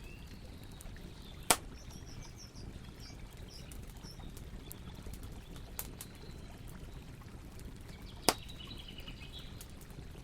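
Campfire burning with a steady low rush and scattered crackles, with two sharp pops, one about a second and a half in and one near the end. Faint bird chirps sound in the background.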